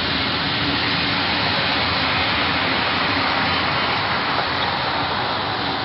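Passenger train coaches rolling past close by, a steady rushing noise of wheels on the rails at a constant level.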